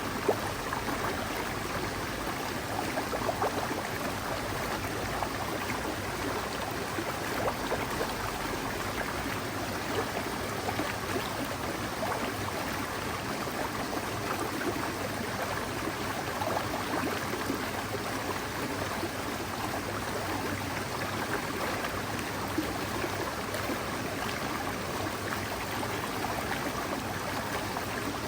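Forest mountain stream flowing, a steady even rush of water.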